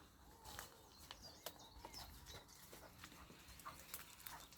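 Near silence with faint, scattered clicks and light rustling, as of hedge twigs being handled.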